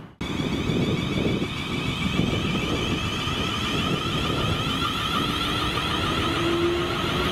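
A train at a station running steadily, with a rough low rumble and a high hum over it; a faint tone rises slightly from about five seconds in.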